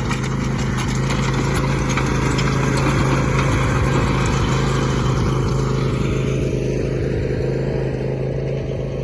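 Riding lawn mower engine running steadily while it tows a mini manure spreader, with a rapid clatter over the first few seconds.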